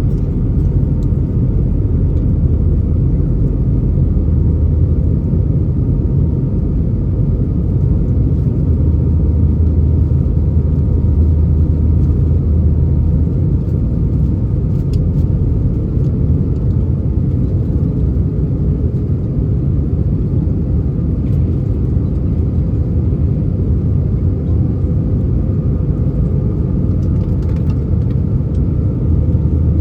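Airbus A319 passenger-cabin noise: a steady, loud low rumble of engines and airflow, with a faint steady whine above it.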